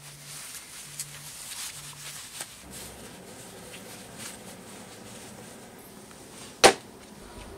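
Quiet room hiss with a few faint ticks and rustles, then one sharp click near the end.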